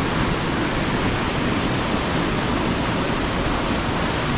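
Steady loud rushing of storm wind and ocean surf, with no distinct events.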